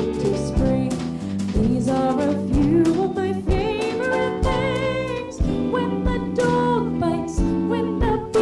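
A jazz combo playing with a vocalist: sung melody over bass and drums.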